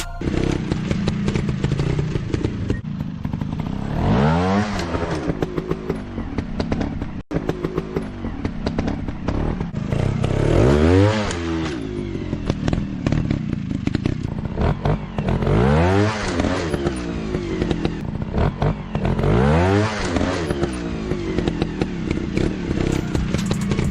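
Dirt bike engines running rough and revving, with the pitch swelling up and falling back four times, over a constant clattering rumble.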